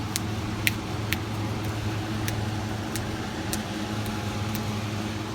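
A steady low mechanical hum, with about seven sharp clicks scattered through it, the loudest about a second in.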